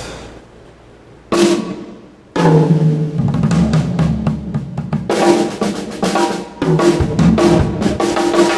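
Drum kit played at a sound check: a ringing cymbal hit dies away, another hit comes a little over a second in, then steady drumming starts about two and a half seconds in and runs on.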